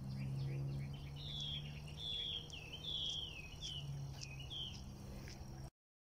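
Wild birds calling: a series of short, swooping whistled notes, over a low steady hum. The sound cuts off suddenly near the end.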